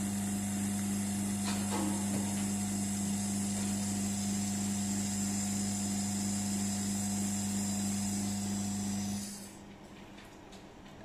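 Small electric oil pump on a cold cranking simulator viscosity tester running steadily with a low hum and a hiss while it draws the oil sample, then switching off about nine seconds in.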